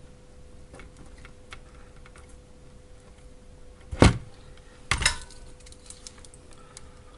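Two sharp knocks about a second apart amid light scattered clicks, tools and wires being handled on a workbench, over a faint steady hum.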